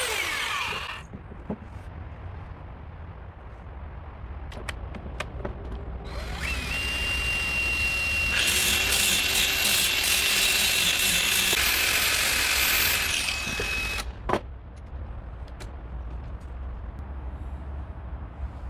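Electric woodworking power tool: one stops about a second in, and one spins up with a steady whine about six seconds in, runs for around eight seconds and stops, followed by a sharp knock. Small clicks and handling knocks come between the runs.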